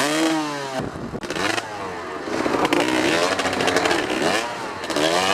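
Dirt bike engine being ridden and revved up and down over and over, its pitch rising and falling with the throttle about four or five times.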